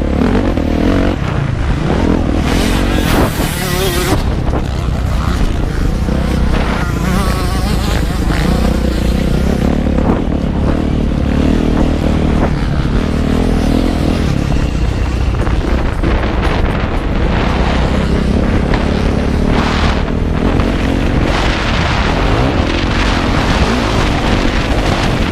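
Onboard sound of a motocross motorcycle engine running hard around a practice track, its revs rising and falling, under a constant heavy low rumble of wind on the microphone.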